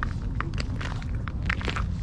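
Snow crunching in short, irregular bursts over a steady low rumble.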